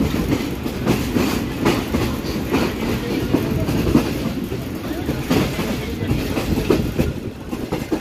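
Moving train heard from inside a passenger coach through an open window: a steady rumble of the wheels on the rails with sharp clicks and clatter, one or two a second, unevenly spaced.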